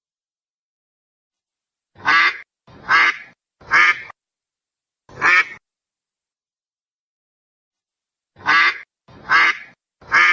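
A duck quacking: seven separate quacks, three in quick succession about two seconds in, a single one near the middle, then three more close together near the end, with silence in between.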